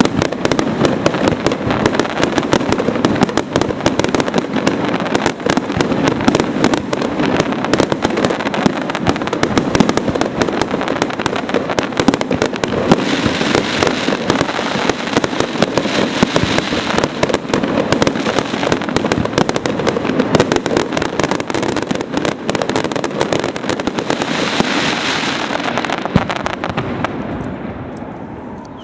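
Aerial fireworks display: a dense, continuous barrage of shell bursts, bangs and crackling stars, going on without a break and dying away near the end.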